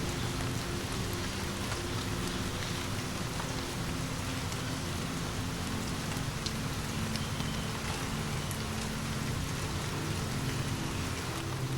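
Steady rain falling, with scattered small ticks of individual drops over a low, steady hum.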